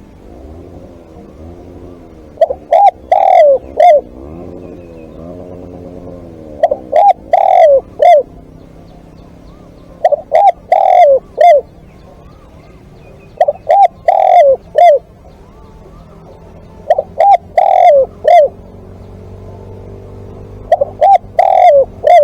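Spotted dove cooing: six repeated phrases about three and a half seconds apart, each a few short coos with a longer note in the middle.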